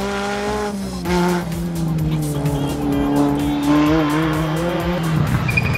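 Rally car engine held at high revs as the car pulls away along the stage, its pitch slowly falling.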